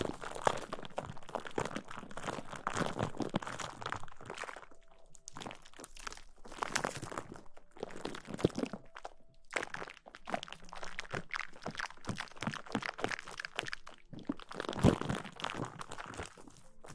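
Close-miked ASMR rustling: dense crackling and scratching on the microphone, in bouts broken by short pauses about four, nine and fourteen seconds in.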